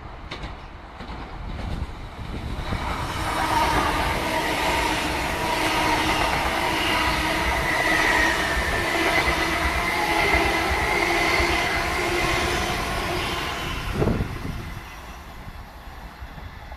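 Hitachi Class 801 Azuma electric train running through a station at speed: the rush of wheels on rail builds up, stays loud with several steady whining tones for about ten seconds as the coaches pass close, then drops away abruptly near the end.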